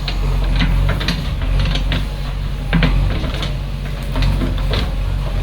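JCB 3DX backhoe loader working: its diesel engine runs with a steady low drone. Irregular sharp knocks and clanks from the machine's metal parts sound over it.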